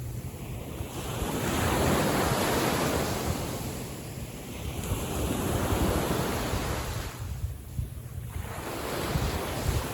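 Small waves of a calm sea washing in. The rushing noise swells twice and fades between, with wind rumbling on the microphone.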